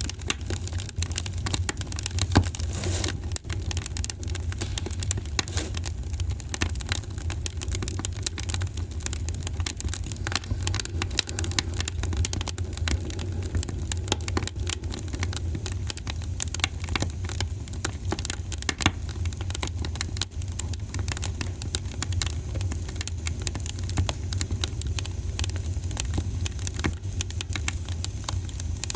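Wood fire burning in a fireplace, crackling and popping in a dense, irregular stream of small snaps over a steady low rumble.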